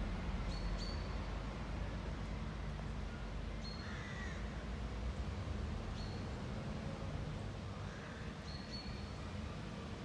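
Birds calling in the trees: two longer calls about four and eight seconds in and a few short high chirps, over a steady low rumble.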